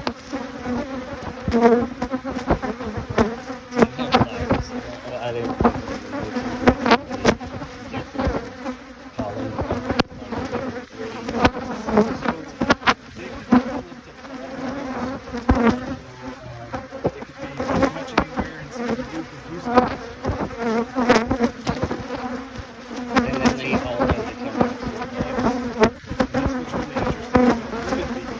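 Honey bees buzzing around an opened hive: a steady, pitched hum throughout, with frequent short clicks and knocks over it.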